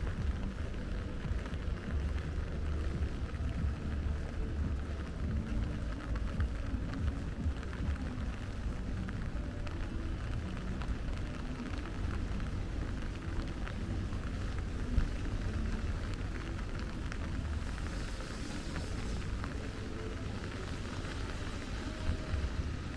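Steady rain falling, over a continuous low rumble.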